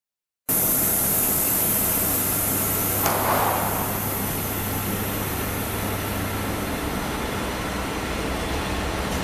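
Double-deck commuter train rolling slowly along the platform: a steady rumble and hiss of its running gear, with a sharp clack about three seconds in.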